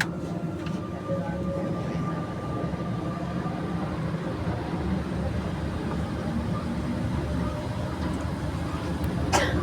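Santiago Metro NS-93 rubber-tyred train running just after its doors have closed, heard from inside the car: a steady low rumble with a faint steady tone early on, and a short click near the end.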